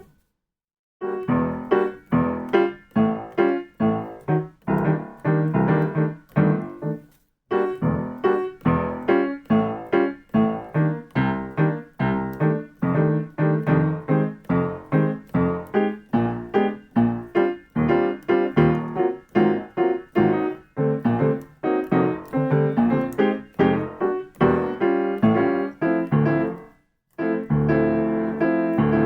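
Solo piano playing short, detached chords in a repeating jazz comping rhythm, about two to three chords a second. The playing breaks off briefly three times and starts again, as in practice.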